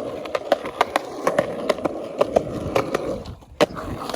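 Skateboard rolling fast on pavement, its wheels clicking regularly over the joints about four times a second. Near the end the rolling drops out briefly and a sharp smack follows, the board landing an ollie.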